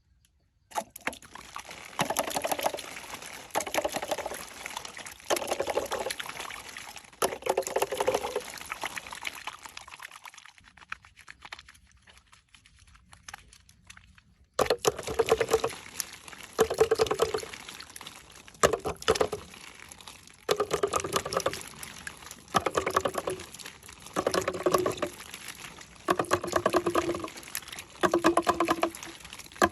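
Water being poured in a series of short pours, one every second or two, with a quieter pause of a few seconds around the middle.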